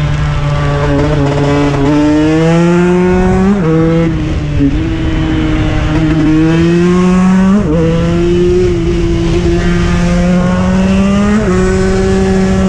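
KTM 125 EXC single-cylinder two-stroke enduro engine running hard at high revs. Its pitch climbs slowly and drops sharply three times, about every four seconds.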